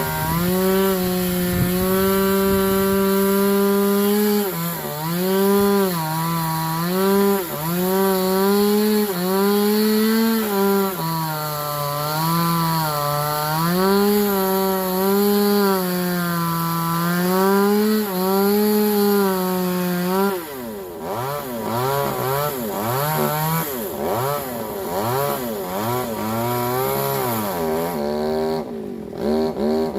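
Two-stroke chainsaw cutting into the tree, its engine pitch dipping and recovering over and over as the chain bites into the wood. About two-thirds of the way through the engine drops to a lower, wavering speed, then revs up again near the end.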